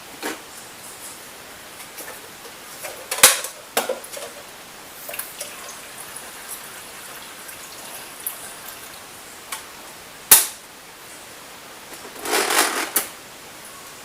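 Handling noises over a steady hiss: a few sharp knocks and clicks, with a short clattering rustle near the end.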